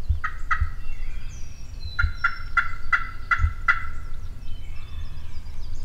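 Turkey calling in a series of evenly spaced notes: two near the start, then six more in a steady run about two seconds in.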